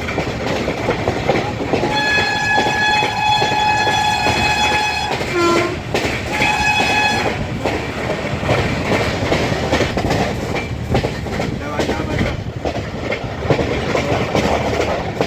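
Train running steadily on the rails with a continuous rumble and clickety-clack. About two seconds in, a train horn sounds one long steady blast of about three seconds, then after a brief break a second, shorter blast.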